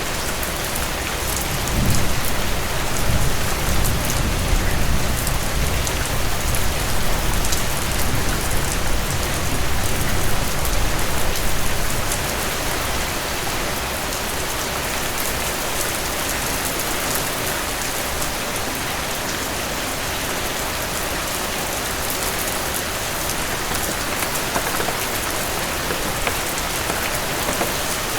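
Heavy rain falling steadily on a cabin porch, with fine crackles mixed in from a fireplace. A low rumble swells about two seconds in and fades out around twelve seconds.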